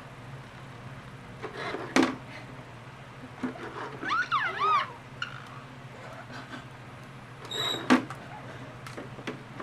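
Pet parrot giving a few short whistled calls that rise and fall in pitch, about four seconds in. Two sharp clicks or taps, one about two seconds in and one near the eight-second mark.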